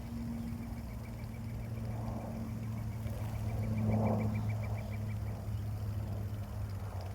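Steady low engine hum, like a vehicle idling or running, with a run of faint quick ticks at several a second that stops about five seconds in.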